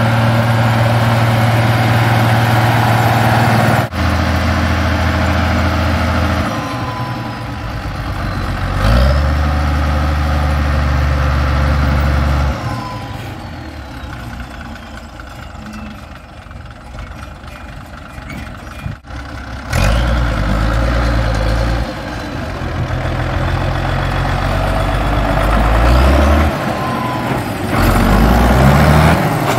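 Ursus tractor diesel engines running under field work, a steady low engine note that changes abruptly several times. The sound is quieter for several seconds near the middle, then loud again.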